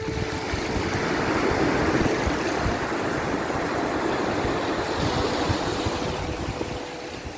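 Sea waves washing in: a steady rush of surf that swells over the first two seconds and eases slightly near the end.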